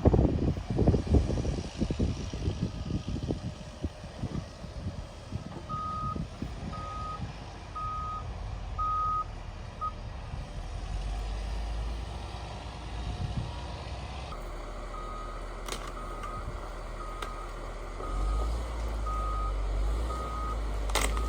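Backup alarm of a heavy vehicle beeping about once a second, in two runs with a pause between, over the low rumble of its engine, which grows louder near the end. A few low thumps and knocks in the first seconds.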